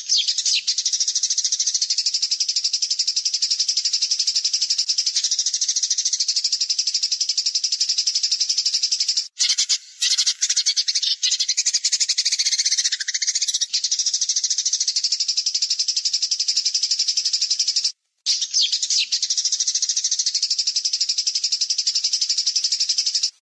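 A songbird's harsh, very fast rattling call, repeated as a looped masteran training recording. It breaks off briefly about 9 and 18 seconds in, with a lower falling note laid over it around the middle.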